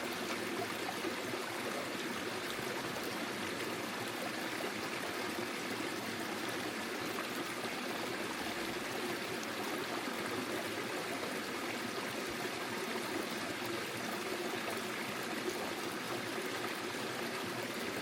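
Small forest stream flowing over stones, a steady babbling trickle of running water.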